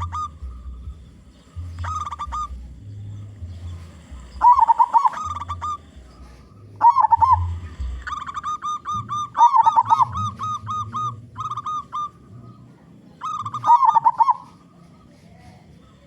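Big-voiced local zebra dove (perkutut) calling actively: short bouts of quick staccato coos every two to three seconds, with a longer run of rapid notes around the middle.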